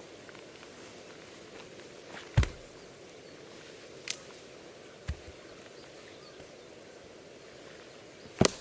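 A few separate knocks and clicks over a quiet, steady background, the loudest about two seconds in and again near the end.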